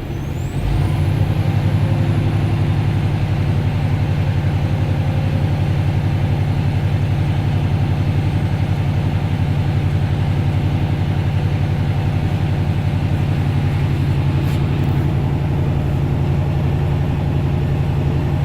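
Diesel truck engine running steadily, growing louder about a second in as it speeds up, with a faint high whistle rising at the same time; the engine is building air pressure in the brake tanks toward governor cutout.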